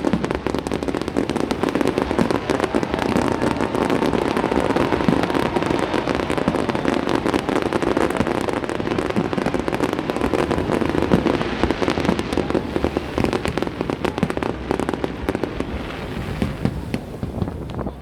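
Fireworks display going off in a dense, continuous barrage of rapid crackling bangs, easing off slightly near the end.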